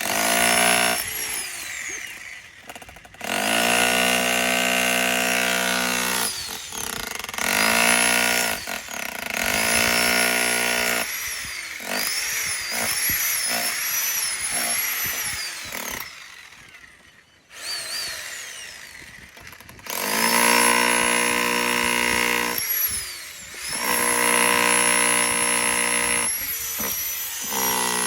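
Jackhammer hammering in several bursts of a few seconds each, with short pauses between them, its motor whining up and down as it starts and stops.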